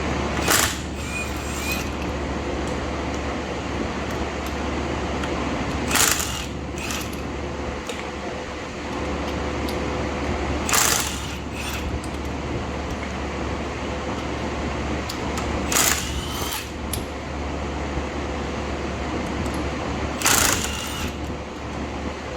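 Five short bursts of an impact wrench, about every five seconds, over a steady fan-like hum.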